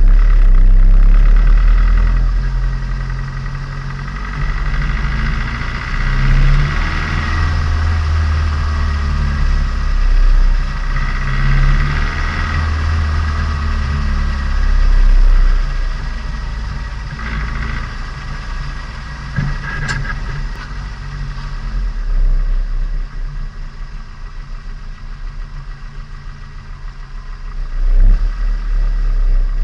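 Turbocharged Nissan Micra's engine heard onboard while driving, swelling and easing off several times as it is revved and lifted off. It grows quieter for a few seconds before picking up again near the end. The engine is being broken in.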